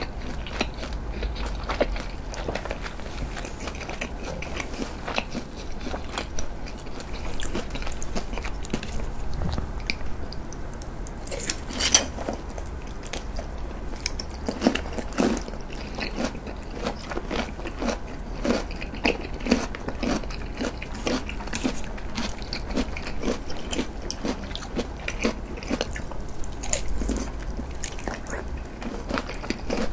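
A person chewing food close to the microphone, a steady run of wet chewing and small crunchy bites with no talk; the food is pork-belly-wrapped daikon. The sharpest bites come about twelve and fifteen seconds in.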